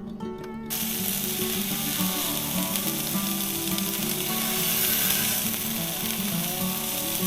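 Meat-wrapped rice balls sizzling in a frying pan, a dense crackling hiss that starts about a second in, over background music.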